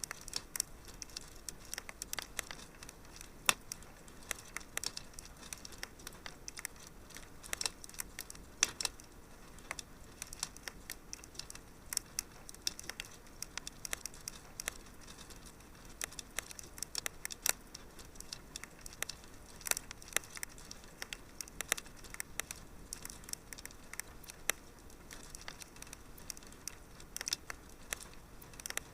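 Wood fire crackling in a fireplace: frequent sharp pops and snaps at irregular intervals over a soft steady hiss, one louder pop about three and a half seconds in.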